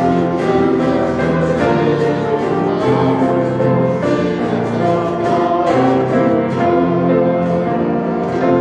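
Choir singing a hymn with instrumental accompaniment, sustained chords changing about once a second.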